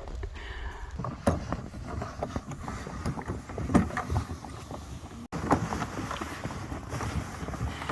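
Irregular crunching and scraping of footsteps in deep snow, over a low rumble of wind on the microphone, with a sudden cut about five seconds in.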